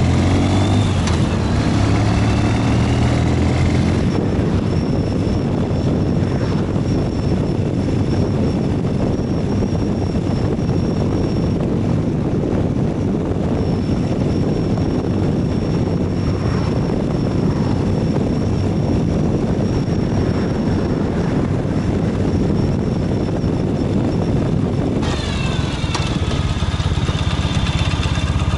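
Ural 750 motorcycle's flat-twin engine running under way, with heavy wind and road noise through most of the stretch. The engine's note stands out and shifts in pitch in the first few seconds and again near the end.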